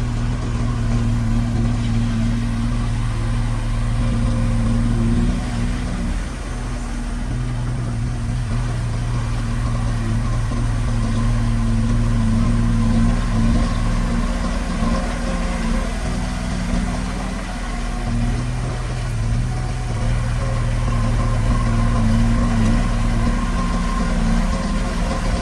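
Diesel engine of heavy construction machinery running steadily, its note dipping and picking up again twice.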